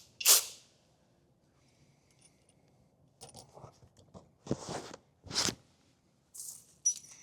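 Short clicks, clanks and scrapes of hand tools and steering-shaft hardware being handled, with a few brief noisy bursts: a loud one near the start and two more in quick succession about four and a half and five and a half seconds in.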